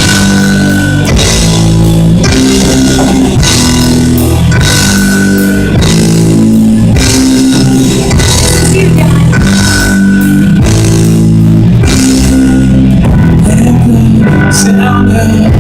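Full-band rock-style worship music with guitar, bass and drum kit playing a steady chord progression, without vocals.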